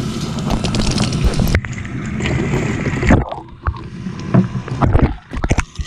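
Vacuum cleaner running with a steady motor noise that stops abruptly about three seconds in. Scattered clicks and knocks follow.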